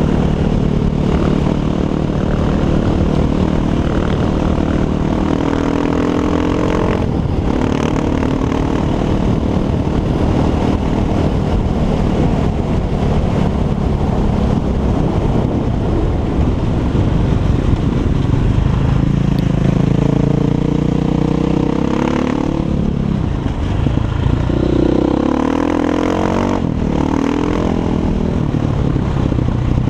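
Six Days 500 enduro motorcycle's single-cylinder four-stroke engine with an Akrapovic exhaust, running steadily at first, then rising and falling in pitch with the throttle several times in the second half.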